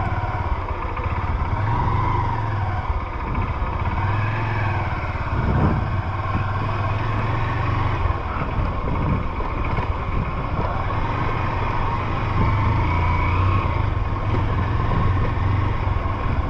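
Honda CG 150 Fan motorcycle's single-cylinder engine running steadily under way, with a short thump about five and a half seconds in.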